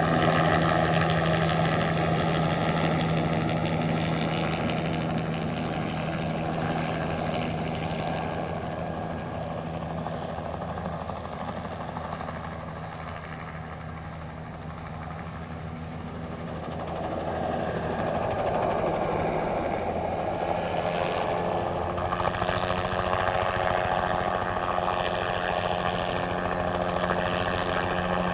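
Single-turbine crop-spraying helicopter flying steadily, its engine and rotor sound fading over the first quarter-minute as it moves away, then growing louder again as it comes back.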